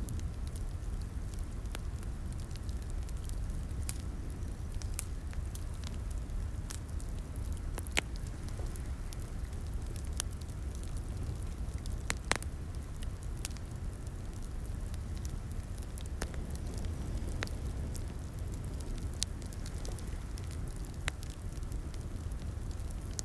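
Wood fire crackling in a fireplace: a steady low rumble of flames with irregular sharp pops and snaps, two louder pops about a third and halfway through.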